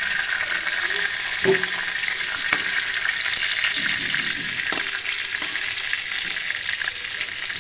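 Cauliflower florets and potatoes sizzling steadily in hot oil in a metal karahi. A spatula knocks and scrapes against the pan a few times as the fried cauliflower is lifted out.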